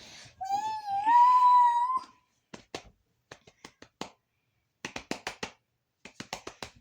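A house cat gives one long, rising meow, followed by a scatter of light clicks and taps.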